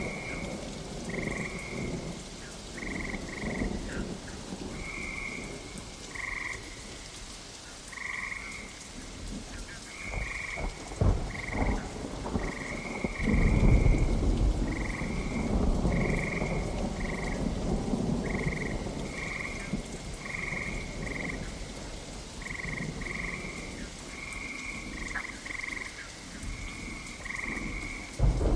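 Steady rain with rolling thunder, the biggest rumble about halfway in. Over it, short high calls repeat again and again, like a chorus of croaking frogs.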